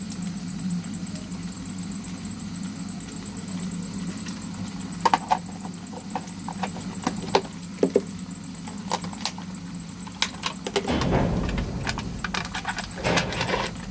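Cooking utensils clinking against a pot in a series of sharp, scattered clicks while spices go into a vegetable rice pilaf, over a steady low hum. About eleven seconds in, a burst of low rumbling noise joins in.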